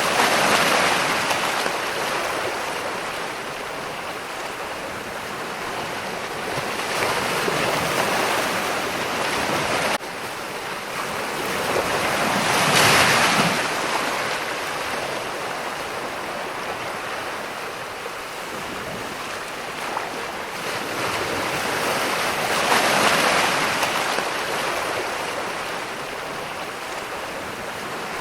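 Ocean waves breaking, a rushing hiss that swells and fades in four surges, the loudest about halfway through.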